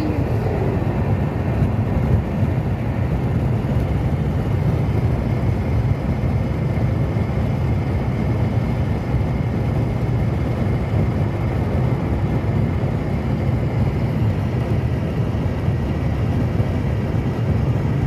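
Steady road noise of a car driving along, heard from inside the cabin: an even, deep rumble of tyres and engine that doesn't change.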